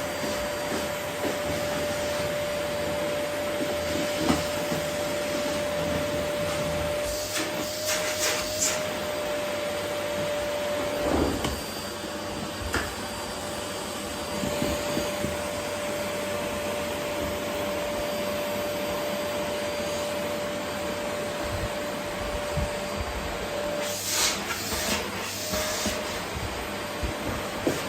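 Vacuum cleaner running steadily with a constant motor whine as it vacuums up rose petals. Twice, about a third of the way in and again near the end, there are brief louder rushes of hiss.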